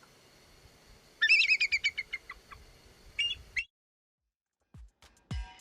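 An eagle calling: a quick run of high piping notes that step down in pitch, starting about a second in, followed by a short call near three seconds in.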